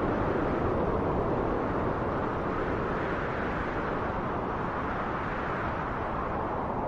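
Steady wind, a low, even rush that eases slightly about two seconds in.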